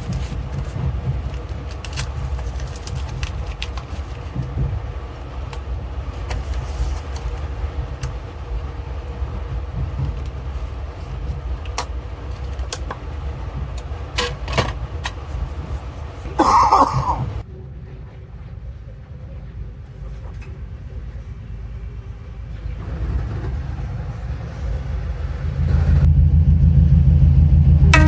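Running train heard from on board: a steady low rumble with scattered clicks. About halfway through there is a short higher-pitched sound, then the noise drops. It builds again to a loud, deep drone near the end.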